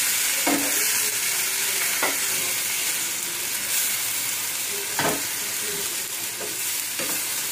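Spinach, chicken and vegetables sizzling in oil in a wok, with a spatula stirring and scraping against the pan a few times.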